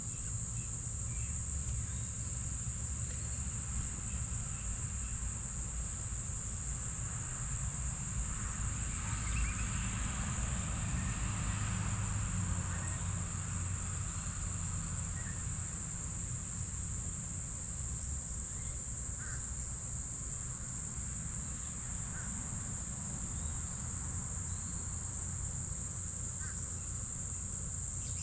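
Crickets trilling in a steady, unbroken high-pitched chorus, over a low rumble.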